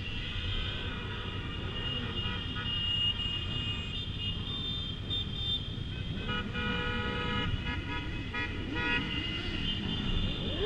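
Motorcycle horns honking on and off over the running engines of a large motorcycle convoy, with several horns sounding together about six to nine seconds in.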